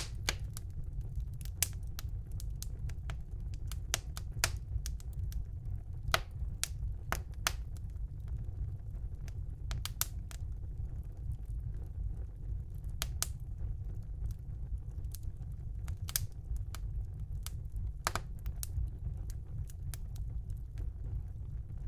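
Wood fire burning in a home fireplace: irregular sharp crackles and pops over a steady low rumble of the flames.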